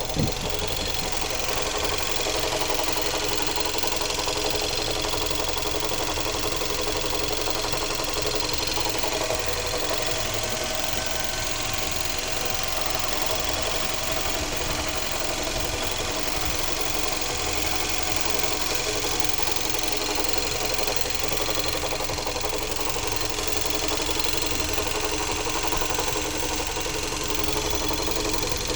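Engine idling steadily with a knock in its running, a knock whose cause the owner cannot make out.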